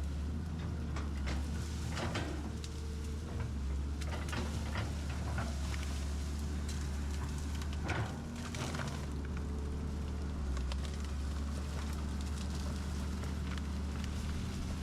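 Excavator's diesel engine running steadily, with scattered clicks and knocks over it.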